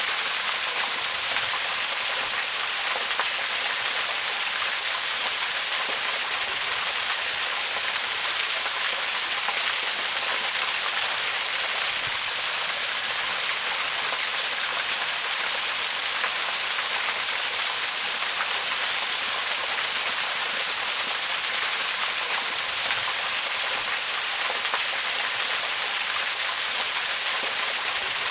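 Waterfall: a steady rush of falling water, an even hiss with most of its weight in the upper range and little low rumble.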